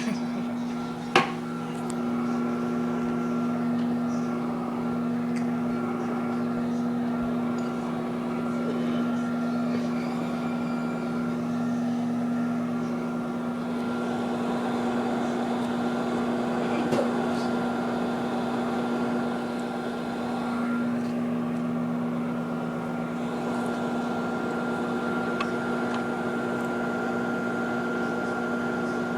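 Microwave oven running with a steady hum, heating a Kit Kat on high power until it smokes and blackens; a single click about a second in.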